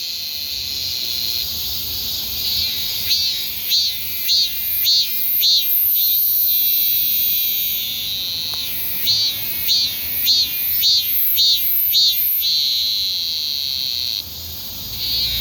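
Cicadas singing: a sustained high buzz alternates with runs of loud rhythmic pulses, about two a second, twice in a row.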